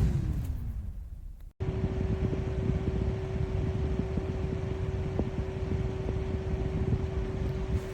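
Small battery-powered camping fan whirring with a steady hum; just after the start its pitch falls as the motor winds down. After an abrupt cut about a second and a half in, it is running steadily again.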